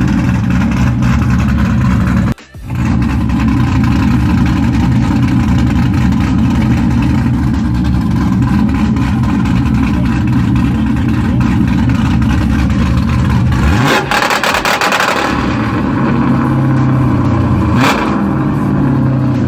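Cadillac CTS-V's V8 running loudly at idle through its exhaust. About fourteen seconds in it is revved, the pitch rising into a loud surge, and near the end there is one sharp crack.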